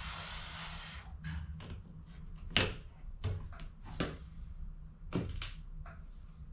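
HP CE285A toner cartridge being worked on at the refilling bench: a rubbing, scraping noise for about the first second, then a string of sharp clicks and knocks of hard parts being handled, several in all.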